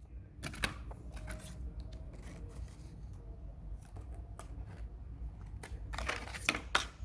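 Scissors snipping yarn amid rustling as the crochet piece is handled, with a few sharp cuts near the start and a quick cluster of them about six seconds in.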